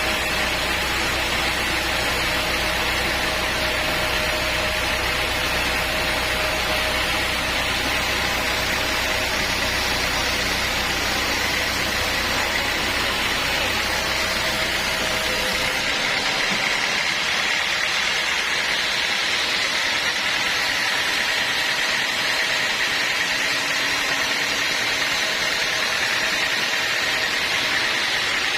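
Sawmill machinery running steadily with a continuous mechanical noise. About halfway through, the low rumble drops out abruptly while the higher noise carries on.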